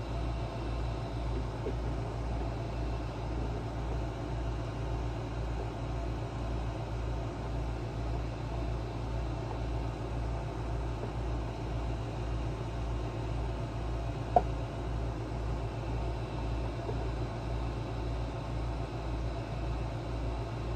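Steady low mechanical hum with a slow, even pulse about twice a second, and a single sharp click about fourteen seconds in.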